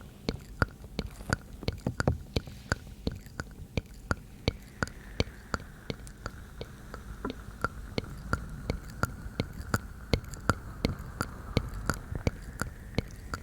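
Close-miked ASMR mouth sounds: sharp, wet tongue and mouth clicks ('tk tk'), about three a second, over faint whispering.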